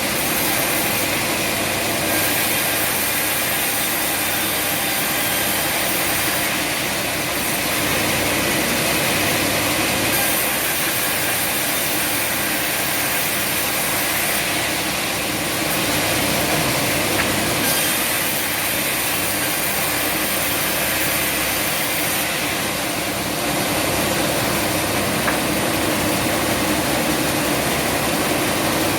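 Sawmill machinery running steadily, with a high hiss that comes and goes every few seconds.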